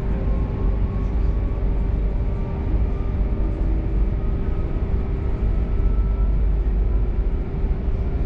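Passenger train running, heard from inside the carriage: a steady low rumble with a hum and a faint whine slowly rising in pitch.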